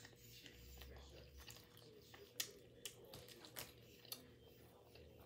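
Faint close-up chewing of a mouthful of barbecue-sauced chicken drumstick: soft wet mouth sounds with a few sharp clicks, the clearest about two and a half, three and a half and four seconds in.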